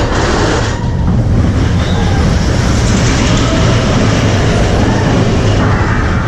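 Expedition Everest roller coaster train running along its steel track: a loud, steady rumble of the wheels and the rush of the ride.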